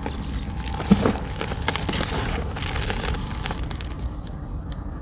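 Blocks of gym chalk being crushed and crumbled, a dense crackle of small crunches with one louder crunch about a second in, thinning to scattered crackles near the end.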